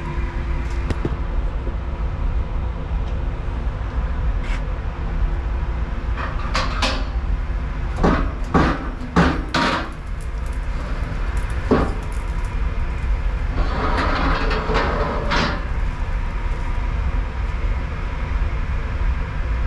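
Metal clunks and knocks over a steady low machine hum, as a cast-iron cylinder head is pulled out of a shot blast machine's rotisserie cage. A cluster of loud knocks comes about eight to ten seconds in, then a couple of seconds of rattling.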